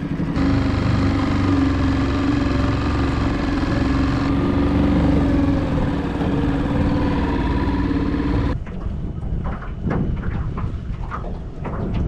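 Yamaha 2.5 hp single-cylinder four-stroke outboard motor running at a steady speed with a steady drone. It cuts off abruptly about eight and a half seconds in, leaving a quieter background with scattered clicks and knocks.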